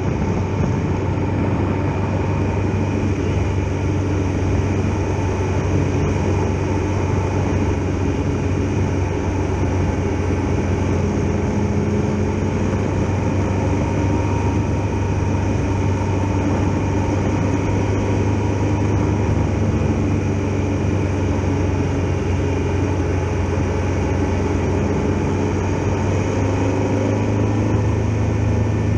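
Triumph Tiger Explorer XRx's three-cylinder engine running at a steady cruise, a constant drone with little change in pitch, recorded on a GoPro carried on the moving motorcycle.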